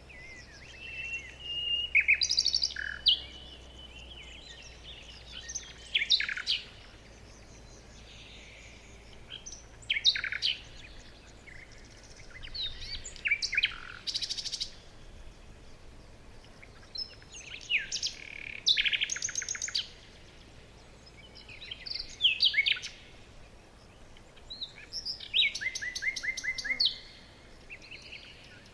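Songbirds singing: short phrases of chirps, quick pitch sweeps and rapid trills, recurring every few seconds over a faint steady background hiss.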